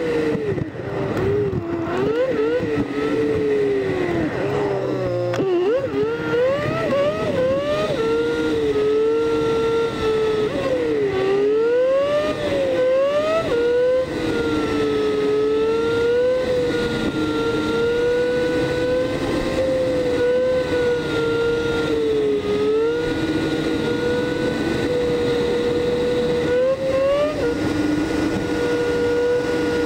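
Smart Roadster Coupé's three-cylinder turbo engine heard from inside the car, played back eight times fast so that it whines high. In the first half its pitch climbs and drops again and again as the car accelerates through the gears; after that it holds a nearly steady pitch at cruising speed.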